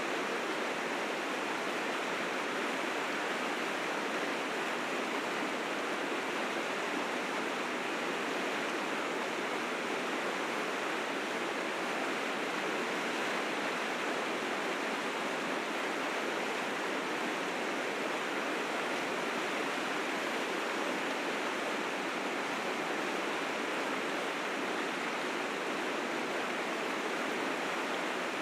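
River rapids rushing steadily, a dense unbroken roar of fast whitewater swollen with spring snowmelt.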